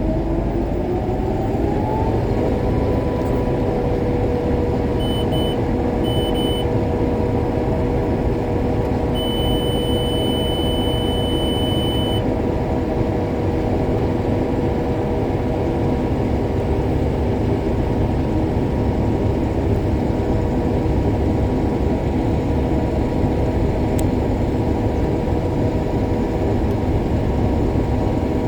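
A combine harvester running while harvesting soybeans, its drone rising in pitch as it comes up to speed in the first couple of seconds, then holding steady. A few short electronic beeps come about five seconds in, then one longer beep lasting about three seconds.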